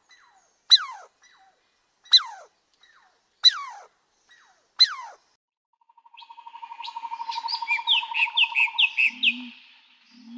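Bird calls: a series of sharp, falling whistles about every second and a half, then a fast trill that swells and fades, with quick chirps over it.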